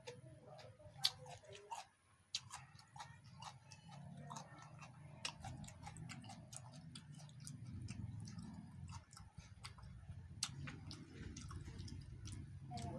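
Irregular light clicks and taps over a low steady hum.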